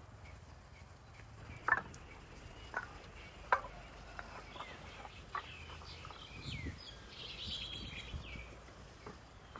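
Chickens clucking and small birds chirping, with three sharp knocks in the first half.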